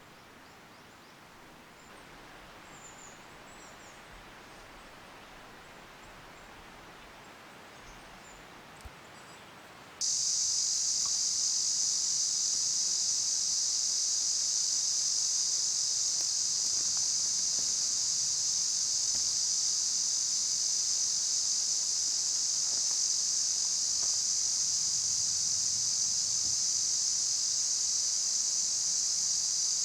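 Faint outdoor ambience with a few brief high chirps, then, about ten seconds in, a loud, steady, high-pitched insect chorus cuts in suddenly and holds without a break.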